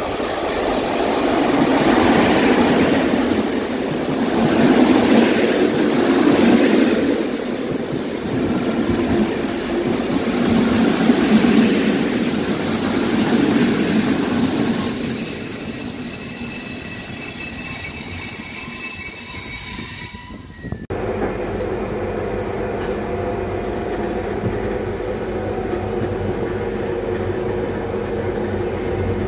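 A passenger train hauled by an electric locomotive pulls into the station: the locomotive and coaches rumble past, and from about 12 seconds in a single high, steady brake squeal rises over the noise as the train slows. Near the end the sound cuts off abruptly to a steady, quieter hum.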